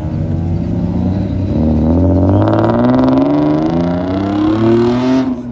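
Performance car engine accelerating hard, its pitch rising steadily for about three and a half seconds, then cutting off suddenly near the end.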